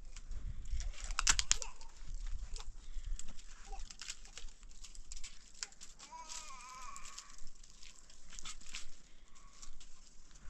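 An animal bleating once, a wavering call about six seconds in, among scattered clicks and knocks.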